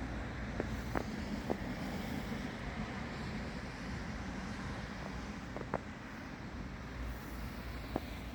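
Steady outdoor rumble and hiss, like wind on the microphone, with a few short sharp clicks scattered through it.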